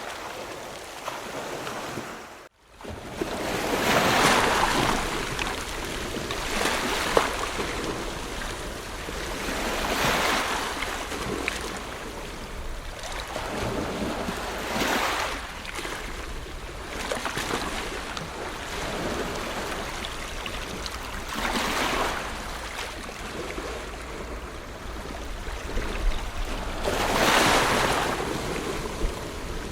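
Ocean surf: waves breaking and washing in, the rush swelling and fading every few seconds, loudest soon after the start and near the end. The sound cuts out briefly about two and a half seconds in.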